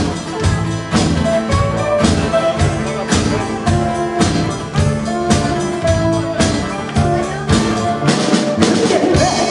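A live band playing, with a drum kit keeping a steady beat of about two hits a second under sustained instrument notes.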